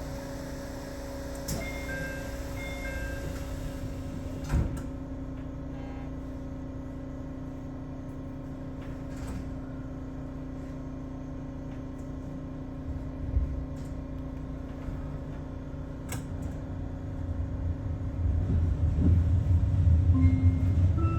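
Aboard an Aichi Loop Railway 2000 series electric train: a steady electrical hum, with a few short chime tones and a couple of clicks in the first seconds. A low rumble builds over the last few seconds as the train gets moving.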